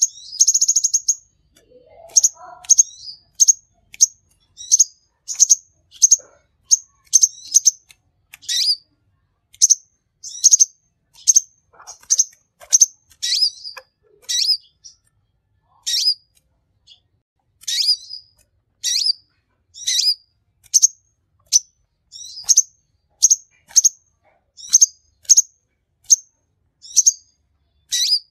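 A 'king konin' sunbird singing a long run of short, high chirps, about one or two a second, with a rapid rattling trill near the start: a bird in full, continuous song.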